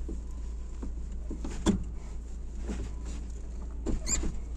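UAZ engine running in a steady low hum inside the cab, with clicks and a clunk as the floor gear lever is worked, and a short squeak near the end.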